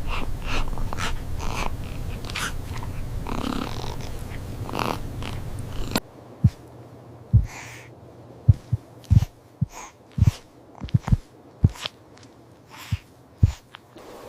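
A golden retriever puppy's snuffling and small noises over a steady low hum. About six seconds in the hum cuts off, and about a dozen soft, irregular low thumps follow.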